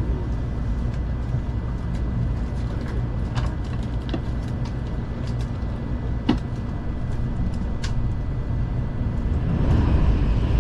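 Cabin noise of a Kamome shinkansen train running at speed: a steady low rumble with scattered light clicks and one sharper knock about six seconds in, growing louder near the end.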